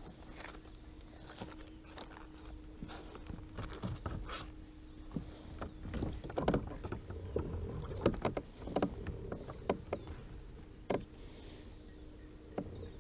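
Sounds of a fishing kayak on the water: soft watery swishes every couple of seconds over a steady low hum, with a run of knocks and clatter against the hull in the middle.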